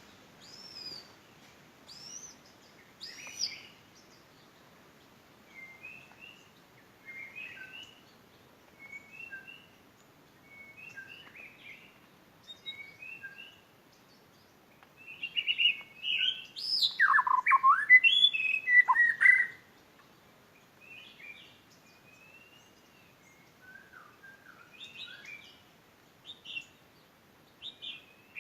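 White-rumped shama singing a string of short, varied whistled phrases about a second apart, with a louder, more elaborate run of notes about fifteen seconds in that lasts some four seconds.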